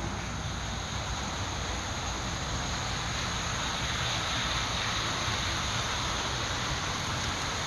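Model passenger trains running on the layout track: a steady rolling rumble with hiss.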